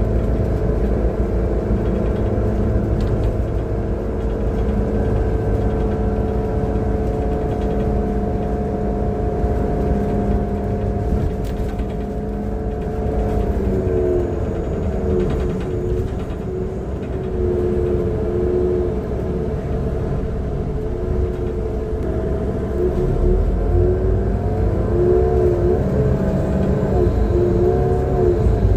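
Transit bus engine and drivetrain heard from on board, a rumble with a steady whine that begins wavering up and down about halfway through as the bus changes speed. The uploader calls it a bad engine sound.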